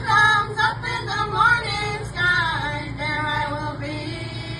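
A group of young women singing together, the voices sliding in pitch from phrase to phrase; the singing grows fainter just before four seconds in.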